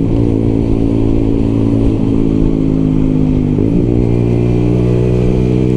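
Lexmoto LXR 125 motorcycle engine, heard from the rider's position, running at a steady pace. Its note holds level, with a brief dip and recovery about three and a half seconds in.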